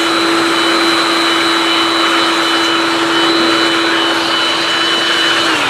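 Electric air blower running at full speed, a steady whine over rushing air, blowing dust out of the opened fan. It is switched off near the end and winds down, falling in pitch.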